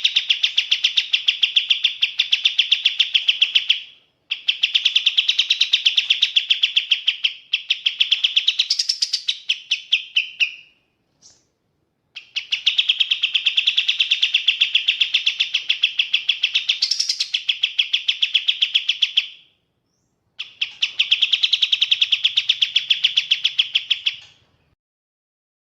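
Kapas tembak bulbul singing in four long bouts of rapid, evenly repeated high chattering notes, separated by short pauses. A quick rising note comes near the end of the second and third bouts.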